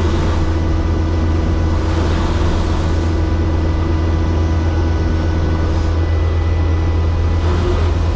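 Skid steer engine running steadily at full throttle, heard from inside the closed cab, with the hiss of high-pressure car-wash spray swelling and fading as the jets pass over the machine.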